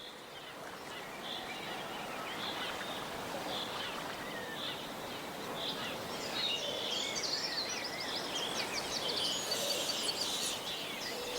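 Small birds chirping over a steady outdoor hiss, short calls at first, growing busier and higher-pitched in the second half.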